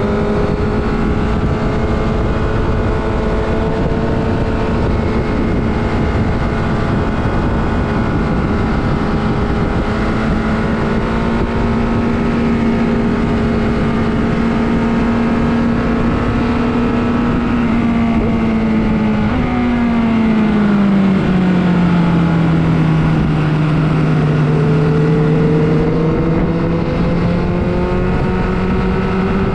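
Superbike engine running hard at high revs under a steady rush of noise. About twenty seconds in the engine note drops in two quick steps, then slowly climbs again.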